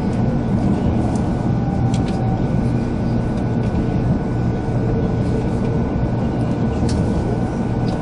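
Running noise heard inside the cabin of a JR 300 series Shinkansen train: a steady rumble from the moving train with a thin, steady high tone over it and a few faint ticks.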